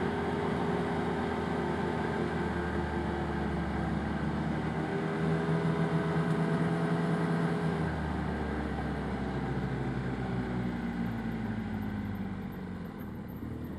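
Arctic Cat Wildcat Trail 700 UTV engine running under way, its pitch rising a little and then falling and easing off near the end as the machine slows.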